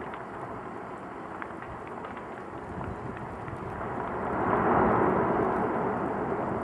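Volcanic eruption sound: a steady noisy rush and rumble with no pitch to it, swelling louder and brighter about four seconds in.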